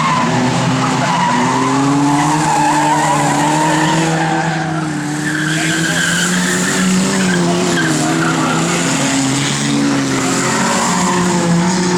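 Several banger racing cars running flat out around an oval, their engines revving with a pitch that rises and falls through the corners, with tyres skidding.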